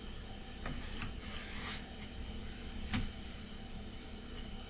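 Objects being handled: brief rustling and clicks, then a soft knock about three seconds in, over the steady hum of an air conditioner.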